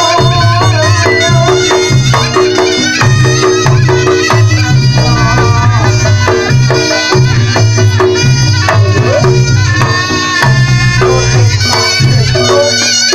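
Live Reog Ponorogo gamelan music: a shrill, wavering reed-horn melody over drums and a low, evenly repeating gong pattern.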